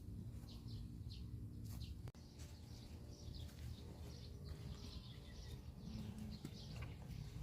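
Small birds chirping: many short, high chirps repeating irregularly over a steady low rumble.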